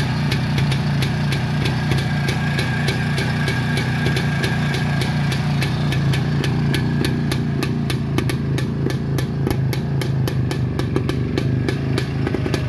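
Pannonia 250 two-stroke motorcycle engine idling steadily, with a fast even ticking over its low running note.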